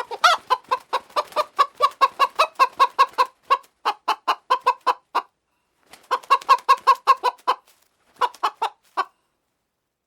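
Chicken clucking: rapid runs of short clucks, about five a second, in three bursts with two brief pauses between them.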